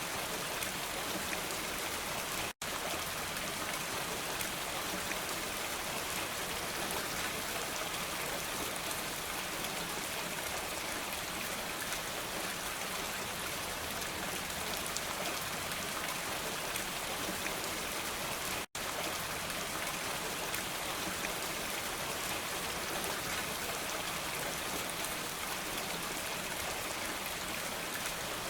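Steady, dense rainfall, a constant hiss of many drops pattering on surfaces. The sound cuts out to silence for an instant twice, once about two and a half seconds in and again after about nineteen seconds.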